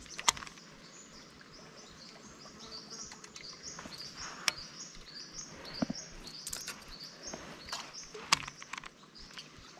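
Birds chirping in runs of short, high, falling notes, with a few sharp clicks from handling a baitcasting rod and reel.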